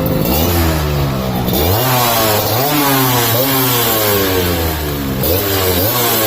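Yamaha RX two-stroke motorcycle with an expansion-chamber exhaust, its throttle blipped over and over so the engine note keeps rising and dropping back.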